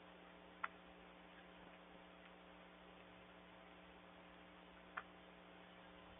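Near silence with a faint steady electrical hum, broken by two short sharp ticks about four seconds apart.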